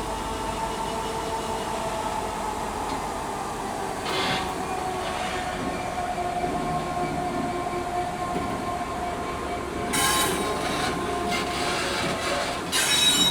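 Class 66 diesel locomotive with its two-stroke V12 running as it moves its freight train slowly, with steady squealing tones that slowly shift in pitch. Short hissy bursts come about four seconds in, about ten seconds in and again near the end.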